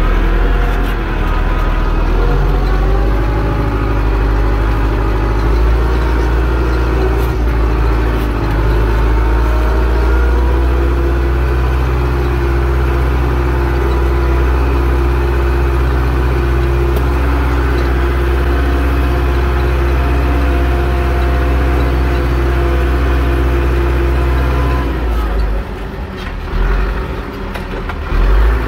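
Zetor 6245 tractor's four-cylinder diesel engine running steadily while pulling a plough. The sound drops for a few seconds near the end, then comes back up.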